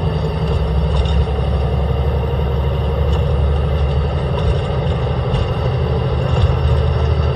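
Caterpillar C10 inline-six diesel engine of a Peterbilt 320 garbage truck running steadily, without clear revving.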